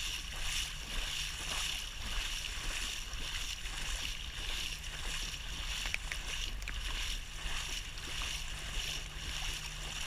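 Steady rushing of a strong floodwater current flowing across a submerged path, with a low steady hum underneath.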